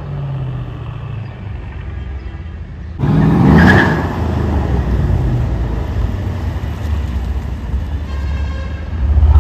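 A car engine running with a low rumble, then revved sharply about three seconds in, the pitch sweeping up, and held at a louder, higher-revving run after that, with another surge near the end.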